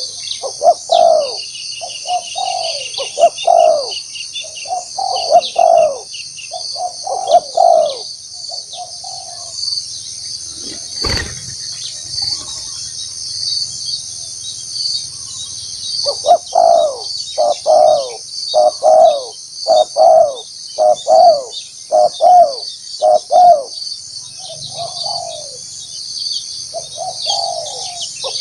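Spotted dove cooing in repeated phrases, with a pause of several seconds in the middle, over a steady high-pitched drone. A single sharp knock falls in the pause.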